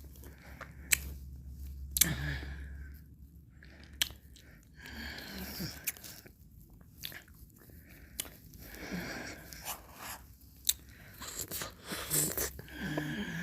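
Close-miked mouth sounds of eating ice cream: licking and chewing, with sharp mouth clicks scattered throughout and a few longer stretches of wet mouth noise.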